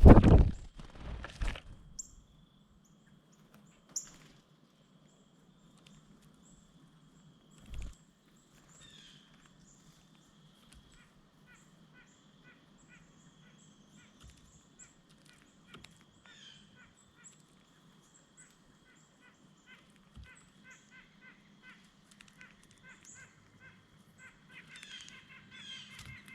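Short nasal calls of a white-breasted nuthatch, repeated many times and coming in quick series near the end. A few loud thumps in the first two seconds and another about eight seconds in.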